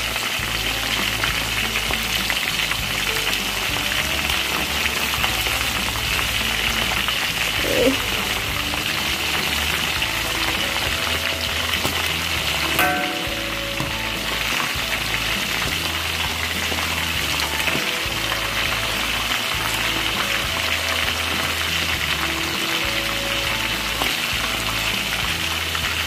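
Quail halves deep-frying in hot oil in a wok: a steady sizzle, with the oil popping and spattering, one sharp pop about halfway through.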